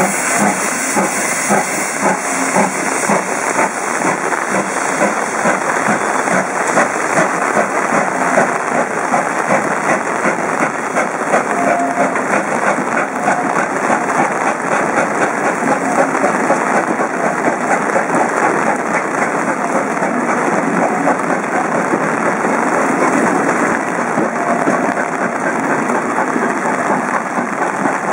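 Steam-hauled train of passenger coaches rolling past close by as it pulls away in rain: a steady, dense hiss of rain and train noise full of fine rapid ticks.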